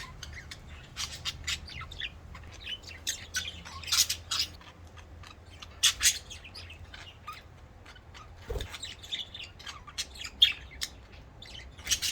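Budgerigars chirping and chattering, a stream of short, sharp chirps with louder bursts about 4 and 6 seconds in.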